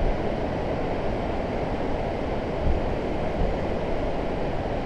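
Steady rushing wind and road noise from a Honda CB500X motorcycle riding along, with its engine buried in the wind on the microphone.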